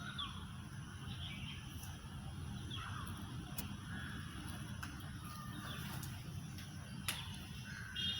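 Outdoor background with scattered short bird calls over a steady low rumble, and a single sharp click about seven seconds in.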